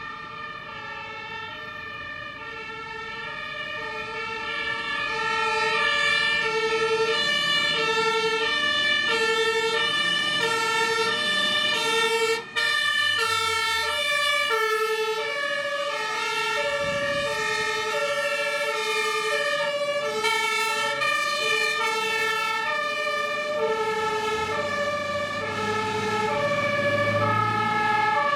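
German fire engine two-tone siren (Martinshorn) alternating steadily between a high and a low note. It grows louder over the first six seconds as the vehicle approaches, then stays loud, with the low rumble of the passing truck's engine.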